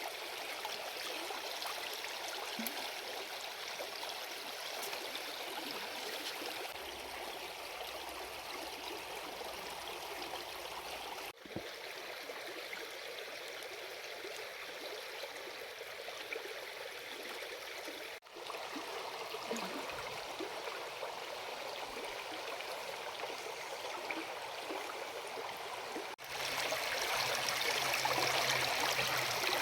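River water flowing steadily, as a continuous rush. It breaks off abruptly three times and comes back at once, louder after the last break near the end.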